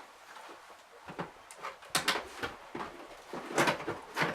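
Toy packaging and plastic display-base parts being handled, with a few sharp clicks and rustles, the loudest about halfway through and near the end.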